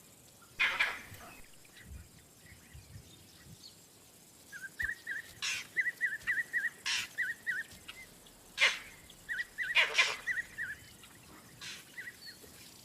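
Vervet monkey alarm calls: several loud, short, harsh calls spaced a second or more apart, with a run of short high chirps repeating about four a second through the middle.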